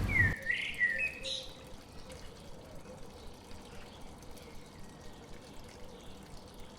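A water drop plops into water at the start, followed by a brief wavering high-pitched chirp in the first second or so, then only a faint steady hiss.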